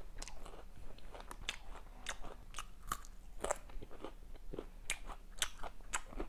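Close-miked chewing of Domino's Crunchy Strips, thin crisp fried strips, with irregular sharp crunches a few times a second as they are bitten and ground.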